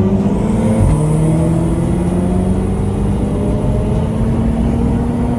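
Car engine accelerating hard under load: its pitch drops at a gear upshift about a second in, then climbs steadily as the revs rise again.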